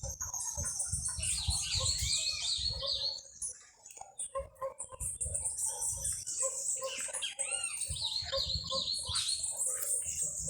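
Several small birds chirping and singing in quick, repeated high chirps and trills, with a short lull about three and a half seconds in.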